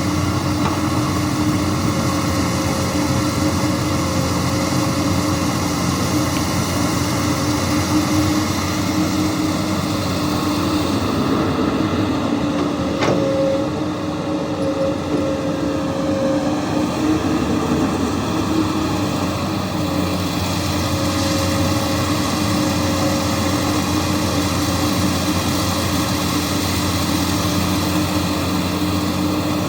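Komatsu PC200 excavator's diesel engine running steadily at a constant pitch, with a single short click about halfway through.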